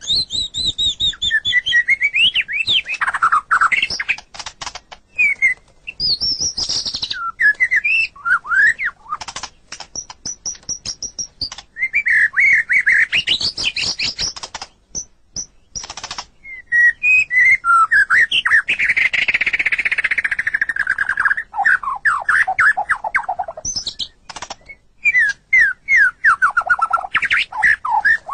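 White-rumped shama (murai batu) singing: a loud, varied run of whistled phrases, fast trills and sharp clicking notes, with quick series of notes sliding down in pitch.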